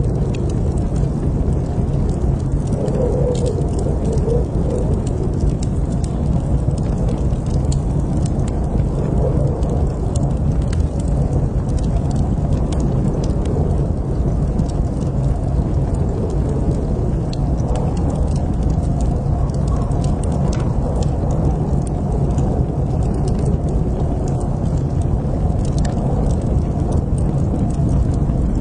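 Fire in a fireplace crackling: a steady low rumble with scattered small crackles and pops throughout.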